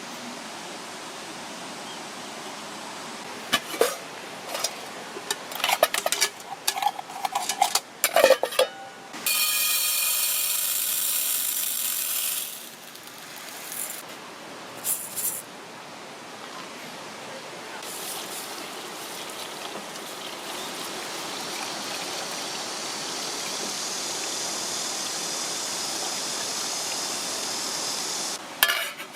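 Valley stream running steadily, with a run of sharp clinks and knocks in the first third and a louder rush of hiss lasting about three seconds after it.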